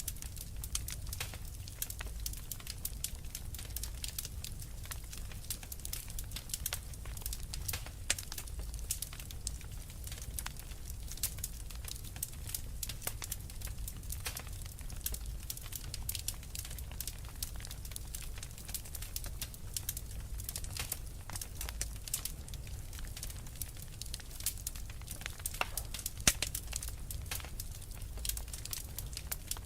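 Wood fire crackling steadily in a fireplace: a dense run of small irregular snaps and pops over a low rumble, with a few louder pops now and then.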